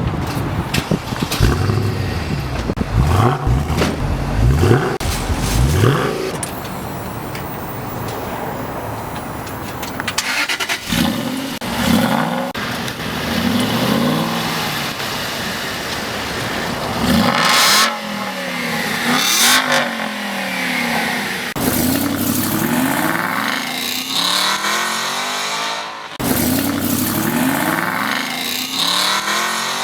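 Supercar engines revving hard and accelerating, cut together in short clips. Engine pitch climbs in steps through gear changes during the first few seconds, then a run of cars rev and accelerate away one after another, pitch rising and falling with each.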